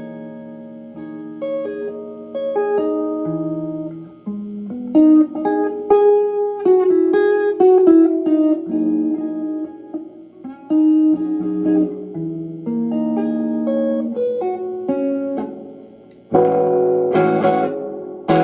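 Electric guitar played through an amplifier and picked up by a phone microphone: a slow line of picked single notes and chords, with a louder strummed chord about two seconds before the end.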